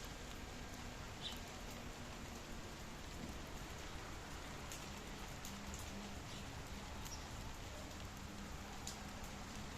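Steady rain with scattered drops pattering on surfaces. A single short high chirp comes about a second in.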